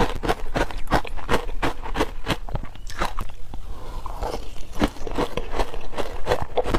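Teeth biting into wet frozen matcha ice: a steady run of sharp crackling crunches, several a second.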